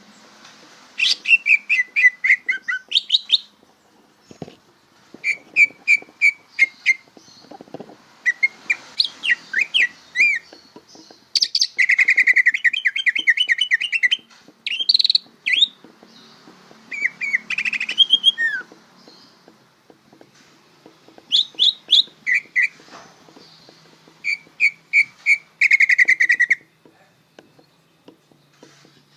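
Cucak ijo (green leafbird) singing in a string of varied phrases, each a quick run of chirps, whistles and trills, with short pauses between them. The loudest, fastest run comes about twelve seconds in. It is a bird still learning its song.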